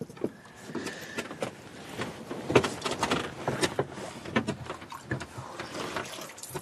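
Irregular clunks, knocks and scraping of a narrowboat's weed hatch being opened to check the propeller for anything caught on it.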